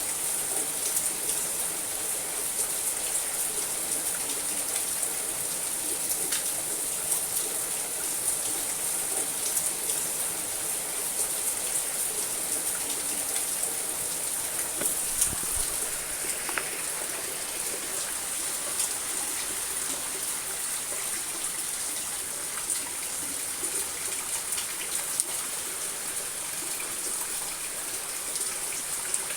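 Rain falling on a house roof: a steady hiss full of small drop ticks. One dull thump about halfway through.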